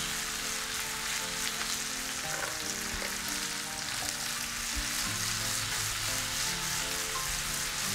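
Masala-stuffed okra sizzling steadily in hot oil in a frying pan as the pan is shaken to mix the pieces. Soft background music plays underneath.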